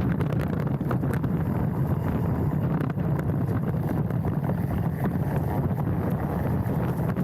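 Steady wind rush on a handlebar-mounted action camera's microphone as a mountain bike rolls down a trail, with light clicks and rattles from the bike scattered through it.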